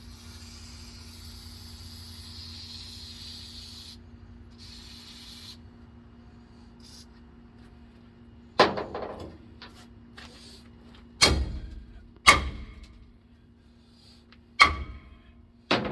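Hammer striking a seized steel brake drum five times, each blow ringing briefly, spaced one to two and a half seconds apart. Before the blows there is a steady hiss for about four seconds and a shorter hiss after it.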